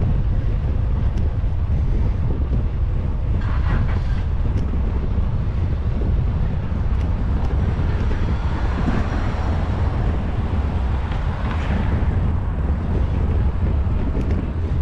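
Wind buffeting a GoPro microphone on a moving bicycle: a steady low rumble, with fainter street sounds rising and falling over it in the middle.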